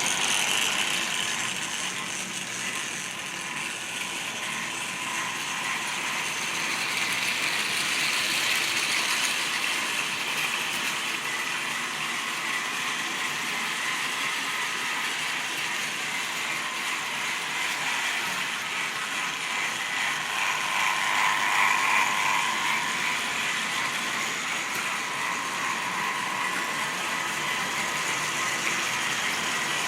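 Model railway train running on track: a steady electric motor whirr with clicking wheels and rail joints. It grows louder twice, about eight seconds in and again around twenty-one seconds, as the train passes closest.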